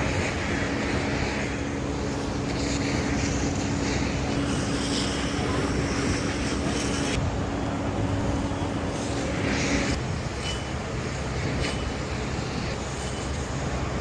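Steady traffic and engine noise, with a steady hum that stops about ten seconds in.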